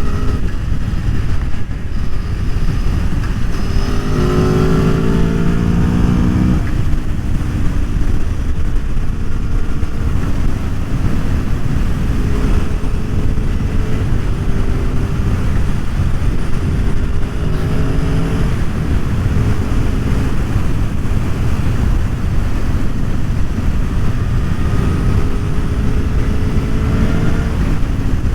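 Aprilia Tuono V4 1100's V4 engine at speed under a constant low rush of wind noise. About four seconds in it revs up through a gear, and the rise cuts off at a shift about six and a half seconds in. Later it holds several steady engine notes.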